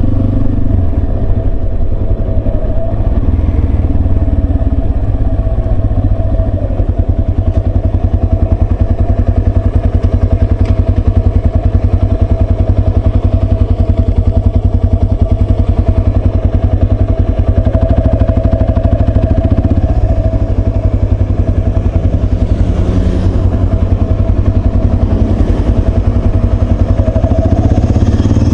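Yamaha Serow 250's single-cylinder engine running steadily.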